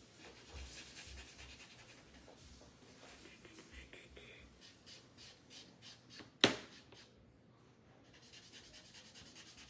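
Paint marker tip dabbing and rubbing on a craft piece, faint repeated short strokes, with one sharp click about six and a half seconds in.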